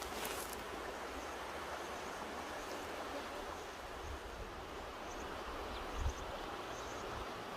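Mountain river rushing steadily, an even wash of water noise, with a short low bump of wind on the microphone about six seconds in.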